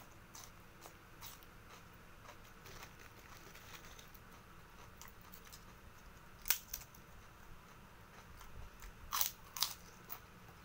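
A person eating: chewing and crunching food by mouth, with a raw cucumber slice bitten at the start and a few sharp, louder crunches about six and a half and nine seconds in.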